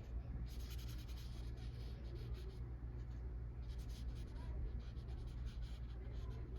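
Medium-sized watercolor brush stroking paint onto watercolor paper: a soft, on-and-off scratchy swishing over a steady low hum.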